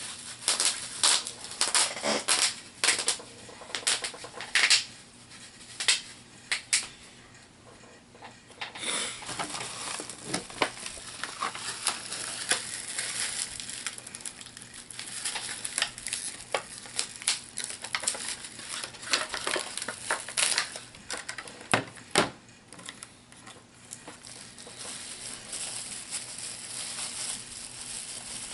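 Plastic HeroClix miniatures and their packaging being handled: many sharp little clicks and clacks of hard plastic, with a crinkly rustle between them. The clicks come thickest in the first few seconds and again in the second half.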